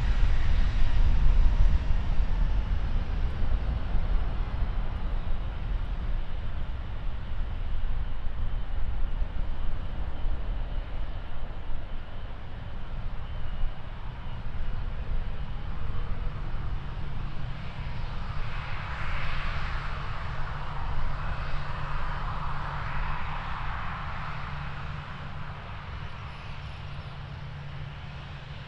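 Jet engines of a departing Boeing 737-800 running at high power, a steady roar that slowly fades away.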